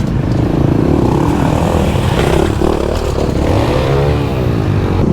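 Supermoto motorcycle engine revving, its pitch rising and falling with the throttle and climbing to a peak about four seconds in before dropping again.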